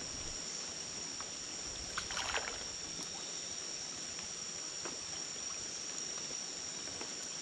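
Steady high-pitched chorus of rainforest insects, with a brief splashing noise about two seconds in and a few faint clicks.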